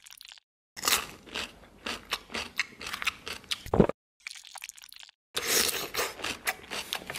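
Crunchy mukbang eating sounds: crisp fried food being bitten and chewed in quick crackling runs. The runs are cut apart by brief dead silences, with one loud crunch just before the middle.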